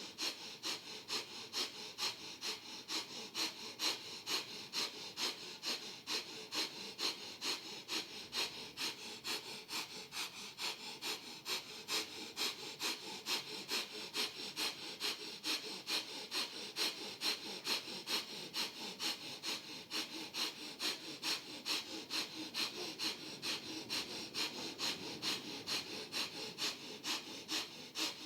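Breath of Fire: rapid, even breathing in and out through the nose, like a sniff and a snort, in a steady rhythm of about three strokes a second.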